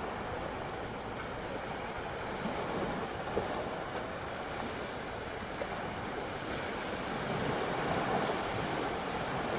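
Sea waves washing in steadily, as a continuous rushing wash of surf that swells a little louder in the second half.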